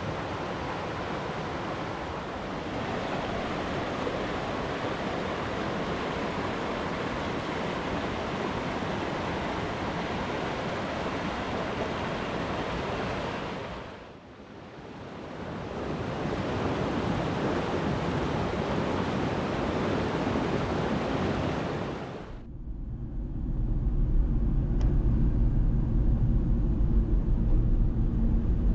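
A river's water rushing steadily, dipping briefly about halfway through and then picking up again. About three-quarters of the way in it cuts off to a louder, steady low rumble, like a kei truck running on the road heard from inside the cab.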